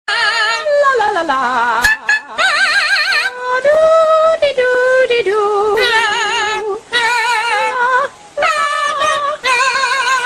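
Wordless singing in a high, warbling voice: held notes with a wide, wavering vibrato, a slide down in pitch early on, and a few short breaks between phrases.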